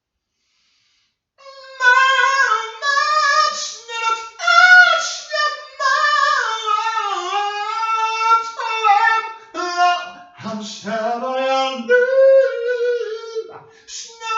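A woman singing alone, unaccompanied, in a high voice with long held and gliding notes, starting about a second and a half in after a moment of silence; the voice sounds as though in a small room.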